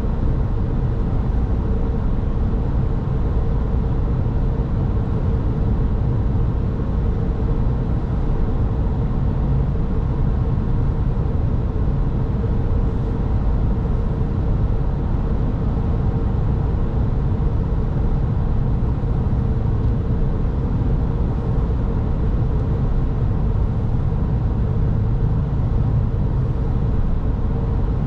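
Steady road and engine noise of a car driving along: a low, even rumble of tyres and engine with a faint steady hum running through it.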